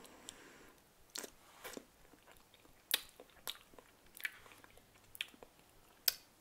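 A person biting and chewing food close to the microphone: quiet mouth sounds broken by about eight sharp clicks, irregularly spaced.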